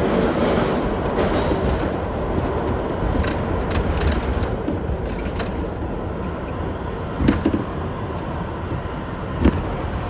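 Kawasaki R62 subway car running along the track, heard from aboard: a steady running noise with a few sharp knocks of the wheels over the rails.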